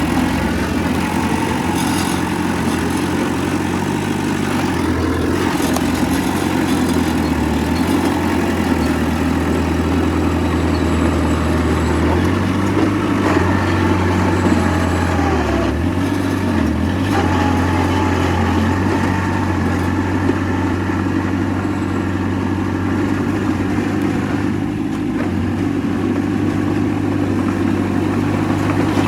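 Heavy diesel earthmoving machinery running steadily, with the engine note shifting a few times as the load changes.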